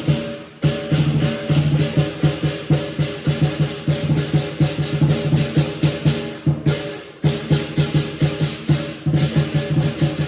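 Lion dance percussion: a large lion dance drum beaten in rapid, driving strokes with crashing cymbals over it. The playing breaks off briefly twice, just after the start and again about two-thirds through.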